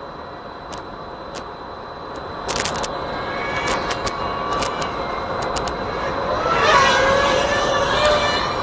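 A vehicle passing by, growing louder to its loudest about seven seconds in, with a droning tone that dips in pitch as it goes past. Scattered sharp clicks run through it.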